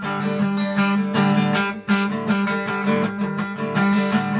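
Acoustic guitar strummed in an instrumental break, with no singing.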